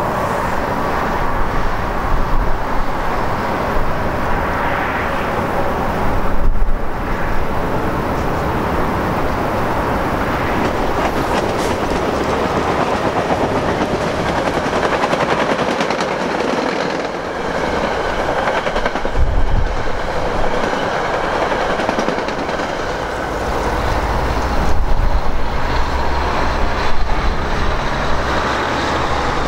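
NJ Transit passenger train, a locomotive hauling coaches, passing close by on the electrified main line: a steady rumble and rush of wheels on rail that rises and falls as it goes by.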